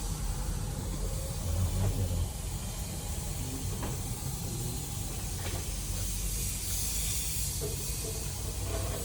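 Steam cleaner hissing steadily, with a low rumble underneath.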